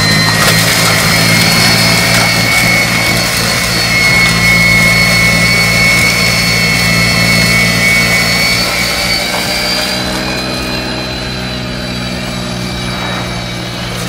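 Snow blower engine running steadily at a constant speed, a low drone with a high whine over it, easing slightly in level about ten seconds in. It is running after its no-start fault was fixed.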